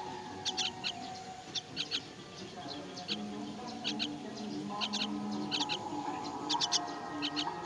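Birds chirping: short, high chirps in quick clusters of two or three, repeating about once a second, over steadier lower tones.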